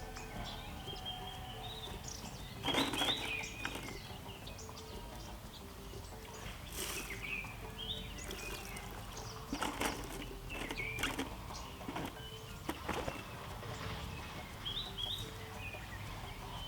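Wet laundry being shaken out and hung on a washing line: several short flaps and rustles of cloth, the first and loudest about three seconds in. Small birds chirp in the background, with faint background music.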